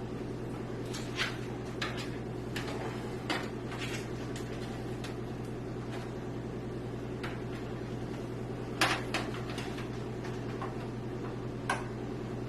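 Scattered light clicks and taps of computer case parts and front-panel cable connectors being handled, the loudest a quick pair about nine seconds in, over a steady low hum.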